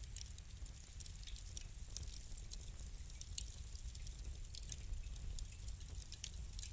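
Wood fire crackling: many small, irregular sharp pops and snaps from the burning logs over a steady low rumble.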